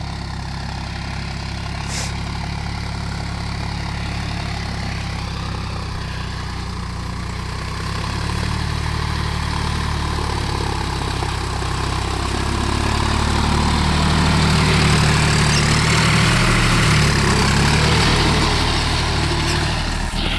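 John Deere 5045D tractor's three-cylinder diesel engine running steadily, growing louder about halfway through.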